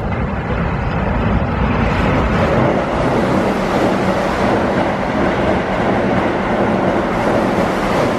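Keihan 8000 series electric train running past along the station platform at speed: a loud, steady rush of wheels on rail and moving cars that swells over the first second or two as it draws level, then holds.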